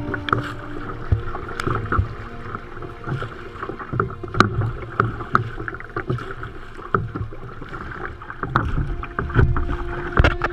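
Sea kayak out on the water: irregular splashes and knocks of paddling over a low, rumbling background of water and wind.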